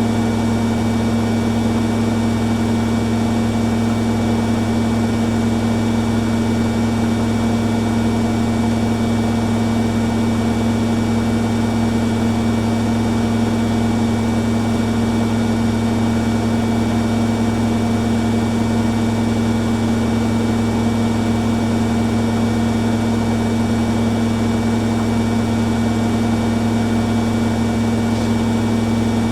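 Two front-loading washing machines, a Hoover Dynamic Next and a Beko Pro AquaTech, spinning together on their spin cycles: a steady, loud motor and drum hum with a strong constant tone, holding one speed throughout.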